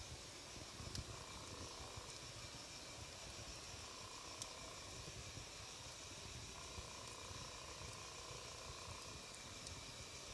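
Wood campfire burning: a faint steady low rush from the flames, with a few scattered sharp crackles and pops.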